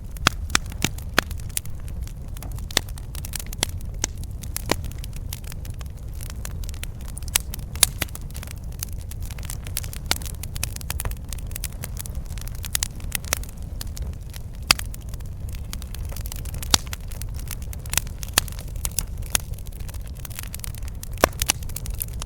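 Campfire crackling, with many irregular sharp pops and snaps from the burning wood, a few much louder than the rest, over a steady low rumble.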